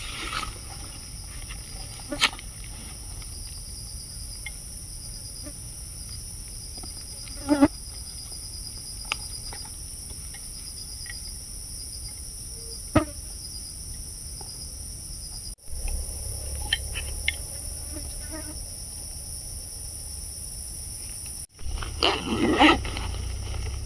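A steady, high-pitched insect chorus drones on at two high pitches, breaking off briefly twice. A few short knocks and thuds come now and then, the loudest near the end.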